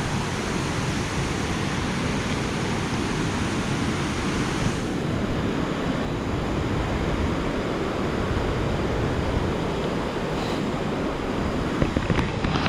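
Steady rushing of a river running fast over rocks. A few small clicks and knocks come near the end.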